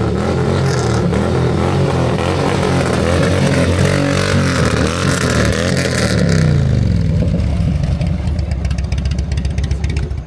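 A big motorcycle's engine running loud as it rides in close by, its pitch bending and falling about halfway through as it passes.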